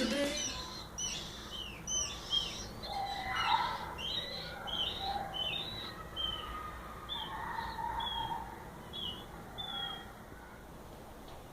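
Birds chirping: a quick series of short, high chirps with a few softer, lower notes mixed in, thinning out near the end.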